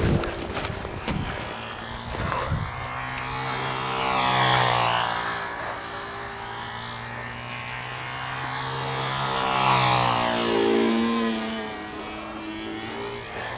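Small model-aircraft engine on a control-line model plane running at a steady buzz. It swells louder and shifts in pitch twice, about five seconds apart, as the plane circles past.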